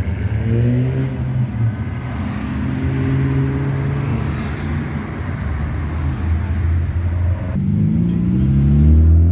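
Car engines running and revving, the pitch shifting up and down, with a fresh rise in revs near the end.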